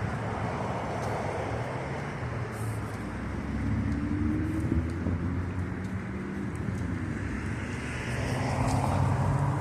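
Street traffic: cars passing, with a vehicle's engine hum coming in about three seconds in and holding through the rest.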